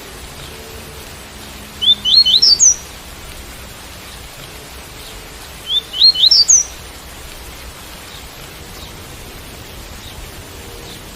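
Double-collared seedeater (coleiro) giving its tui-tui song: two short phrases of quick upslurred whistled notes, about four seconds apart, over a steady hiss of rain.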